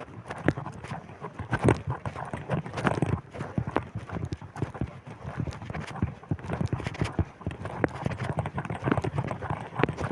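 Footsteps while walking, a quick, irregular run of knocks, over wind buffeting the microphone as a low rumble.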